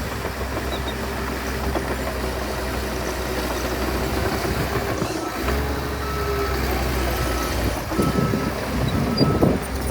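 Heavy earthmoving machine's diesel engine running with a low, steady hum, dipping briefly about halfway through, while a reversing alarm beeps at intervals. There are two louder surges of noise near the end.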